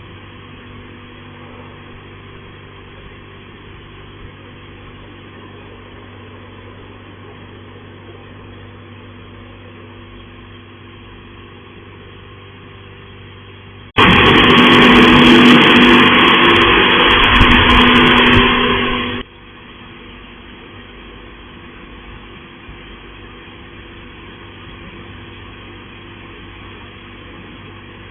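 Touchless car wash machinery: a steady motor hum, then about halfway through a very loud rushing blast from the wash jets that lasts about five seconds and cuts off abruptly, leaving the hum again.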